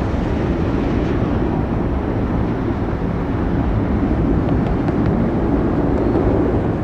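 Jet aircraft engines making a loud, steady rumble as a plane climbs out after takeoff.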